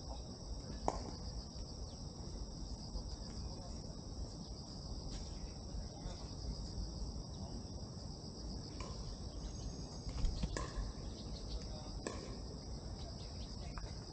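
Steady chorus of insects singing, a continuous high chirring with a fine rapid pulse, over a low rumble, with a few faint clicks.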